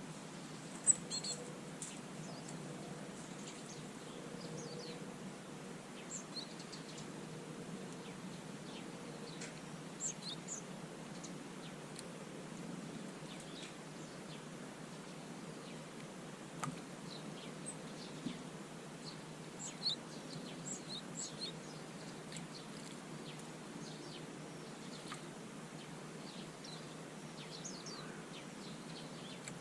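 Small garden birds chirping at a feeder: short, high chirps scattered throughout over a steady low background noise, with a few sharp taps, the loudest about a second in.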